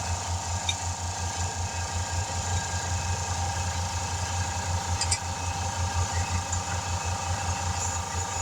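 A motor running steadily with a rapid, even low pulse and a steady whine above it, with a couple of faint clicks about a second in and about five seconds in.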